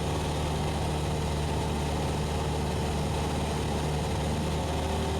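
Cessna 172SP's four-cylinder Lycoming engine and propeller droning steadily in cruise flight, an even, unchanging hum with no breaks.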